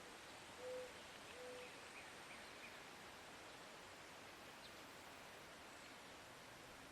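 Quiet outdoor ambience with a faint steady hiss, two short low hoot-like bird calls about a second in, and a few faint high chirps from small birds.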